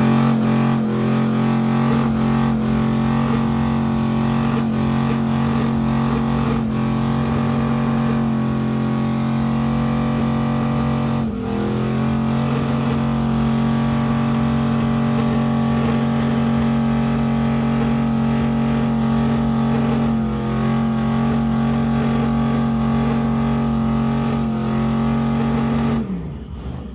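A car engine held at high, steady revs, as in a burnout. It dips briefly about eleven seconds in and recovers, then falls away just before the end.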